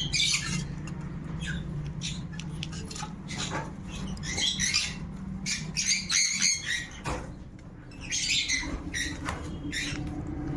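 Baby birds calling in short, shrill, irregular bursts, clustered at times, over a steady low hum.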